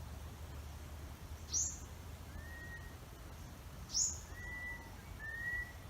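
An unidentified bird calling: two short, sharp, upward-sweeping high calls about two and a half seconds apart, with three softer, lower, drawn-out whistles between and after them. A steady low rumble runs underneath.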